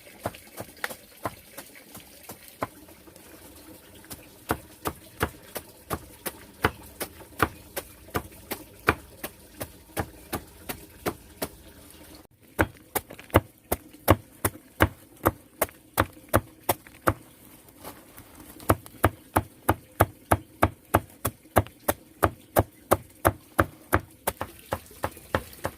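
A knife chopping on a wooden board, steady strokes about two to three a second, with a brief break about twelve seconds in.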